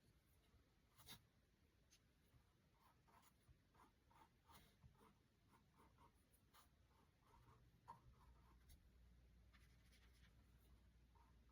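Faint scratchy strokes of a paintbrush working acrylic paint onto a canvas: many short strokes in quick succession, with a sharper tick about a second in. A low, steady hum comes in about eight seconds in.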